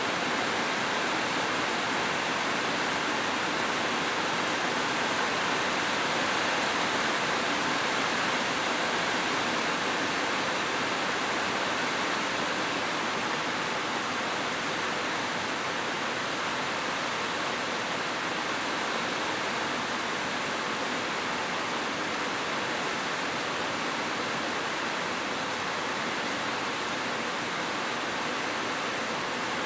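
Heavy rain falling as a steady, even hiss with no separate drops standing out.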